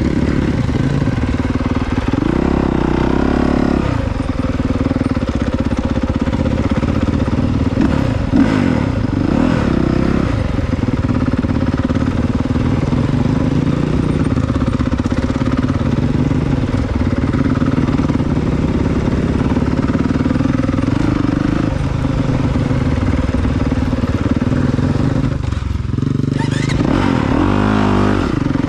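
Honda CRF450R dirt bike's single-cylinder four-stroke engine under way off-road, its pitch rising and falling repeatedly as the throttle is opened and closed. Near the end it drops briefly, then revs up quickly.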